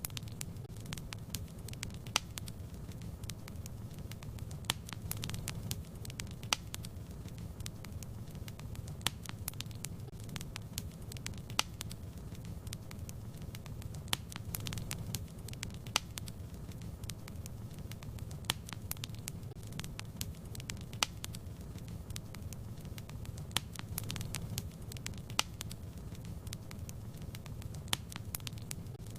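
Fireplace fire crackling: irregular sharp pops and snaps, a few louder than the rest, over a steady low rumble of flame.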